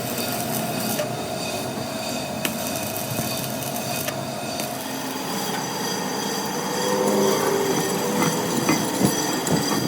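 Metalwork on a truck axle: scattered knocks and clanks of metal over a steady metallic whine, with the knocks louder and busier in the last few seconds.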